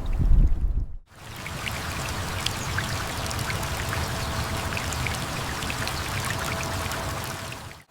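A loud low rumble for about a second, then, after an abrupt cut, a steady rush of pouring, running water with scattered droplet ticks.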